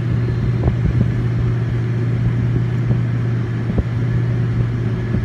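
2007 Dodge Nitro R/T idling steadily with the air conditioning running on its newly fitted compressor, a constant low hum with a faint tick now and then.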